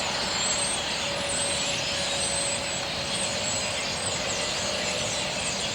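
A flock of birds chirping and chattering steadily, many high chirps over a dense hiss, used as the bird audience's applause.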